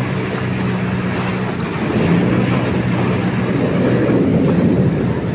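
A motorboat engine running steadily with a low hum, under wind rushing on the microphone and water noise.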